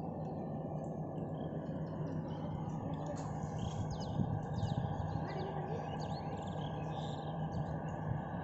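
Birds chirping: a cluster of short, quick calls about three to five seconds in, over a steady low hum and constant background noise.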